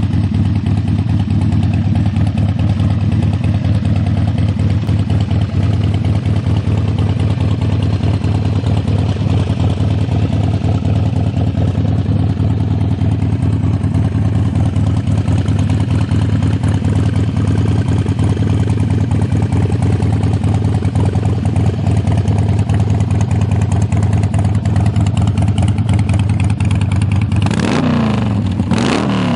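Harley-Davidson Sportster 1200 Custom's V-twin idling steadily through Screamin' Eagle exhaust pipes. It is revved twice near the end.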